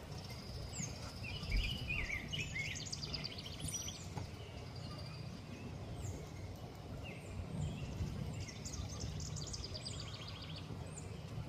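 Several songbirds chirping and singing: short high chirps, a warbling phrase a couple of seconds in, and rapid trills, over a steady low background rumble.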